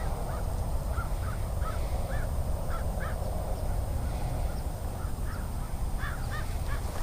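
Birds calling from a flock: a string of short, repeated calls, about two a second, over a steady low rumble.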